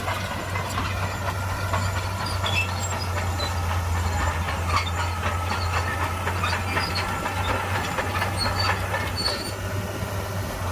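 Shantui crawler bulldozer working: its diesel engine running steadily with a strong low hum, and the steel tracks giving many clanks and squeaks.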